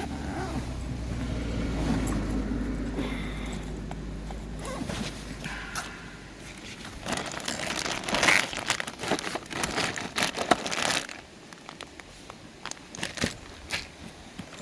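A low steady rumble for the first few seconds, then crinkling and rustling with quick clicks as something is handled, dying down to scattered clicks near the end.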